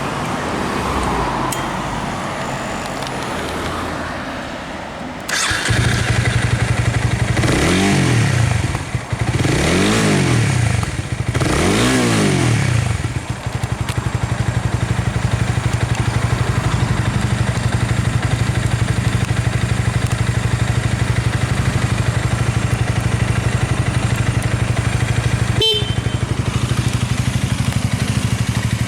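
Honda Rebel 250's single-cylinder engine through a Moriwaki aftermarket exhaust, starting up about five seconds in. It is revved three times, each rev rising and falling in pitch, then settles into a steady idle. A single sharp click near the end.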